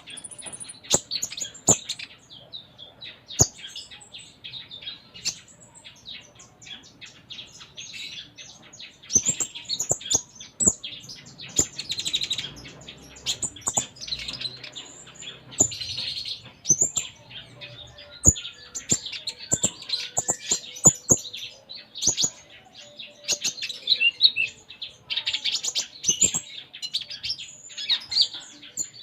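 Kolibri ninja (konin) sunbird singing busily: a long run of rapid high chirps and twitters, full of varied mimicked phrases, broken by many sharp clicks.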